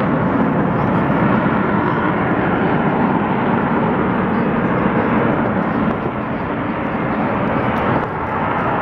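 Lockheed Martin F-35 Lightning II fighter flying a demonstration pass, its single Pratt & Whitney F135 jet engine giving a loud, steady roar that eases slightly twice near the end.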